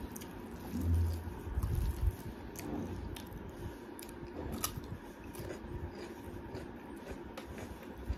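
Close-up eating sounds: chewing, with a crisp bite into a raw cucumber stick about halfway through and small wet clicks from mouth and hand. A dull low thump about a second in.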